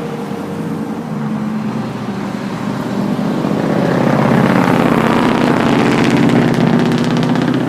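A motor vehicle's engine running close by, growing louder as it approaches, with a rapid pulsing throb at its loudest in the second half.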